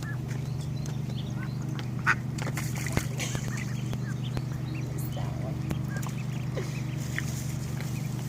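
Birds calling in short, scattered calls, one louder call about two seconds in, over a steady low hum.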